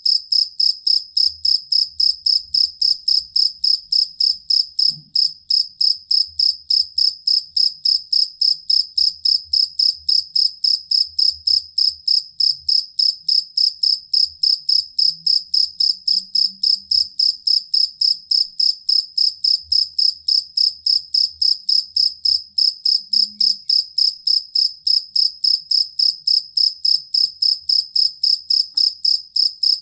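Field cricket chirping steadily, with high, clear chirps repeated at an even pace of about three a second.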